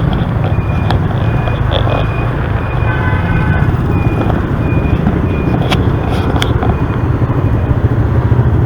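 Motorbike engine and road and wind noise, heard from a moving motorbike in city traffic. A short high beep repeats about twice a second for the first six seconds or so.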